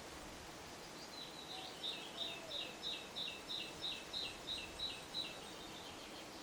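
A songbird singing a run of about a dozen repeated high notes, roughly three a second, each sliding down in pitch, starting about a second in and stopping about a second before the end, over a steady background hiss.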